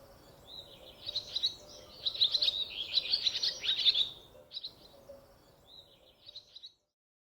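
Small songbirds chirping and singing in quick high twittering runs, thickest for about three seconds, then a few shorter phrases before the sound cuts off abruptly near the end.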